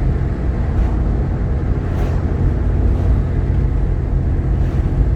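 Steady low rumble of a Jeep Grand Cherokee's 3.7-litre V6 and road noise while driving, heard from inside the cabin.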